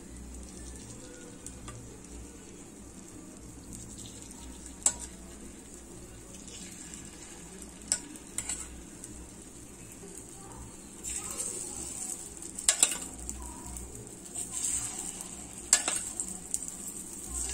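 Egg batter sizzling in hot oil as it is spooned into the wells of a cast-iron paniyaram pan, the sizzle growing louder about two-thirds of the way through as more wells fill. A few sharp clicks of the metal spoon against the pan come through it.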